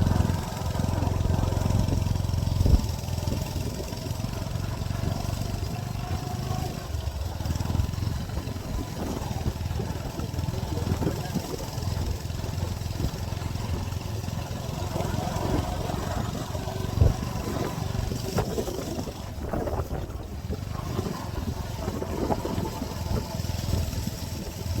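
Motorcycle engine running steadily as it rides along, with a sharp knock about three seconds in and another a little past halfway.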